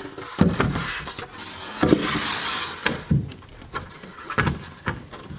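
Pine boards and tools being handled: a series of knocks, with a scraping slide about one to three seconds in.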